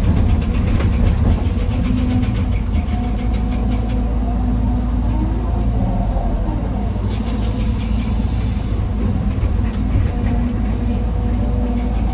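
Heavy diesel machinery engine running steadily, with faint clatters over it.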